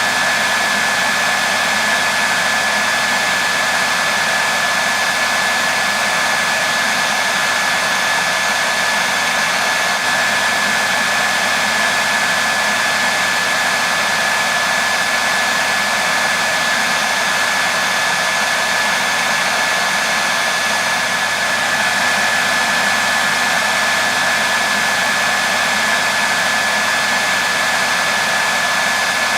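Hair dryer running continuously on a steady setting: an even airy rush of blown air with a thin steady whine from the fan motor, unchanging throughout.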